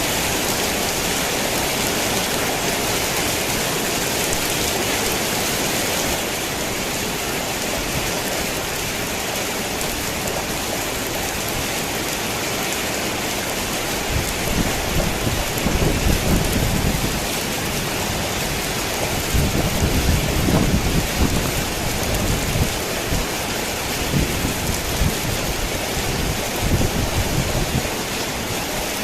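Rain pattering on a tin roof as a steady hiss, with low rumbles of thunder rolling in about halfway through and again a few seconds later.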